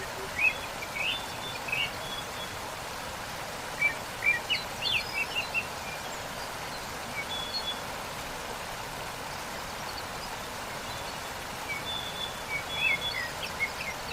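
Steady rushing of a waterfall, with small birds chirping over it in short, high bursts of song three times: at the start, about four seconds in, and near the end.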